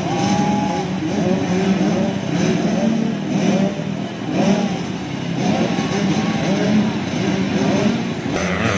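Several 85cc two-stroke motocross bikes racing. Their engines rev up and drop back again and again through gear changes and throttle blips, with more than one bike heard at once.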